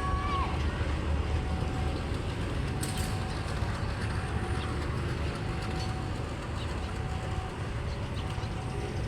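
A long train rolling past at close range, a steady low rumble of wheels on rails. A single sharp clack comes about three seconds in.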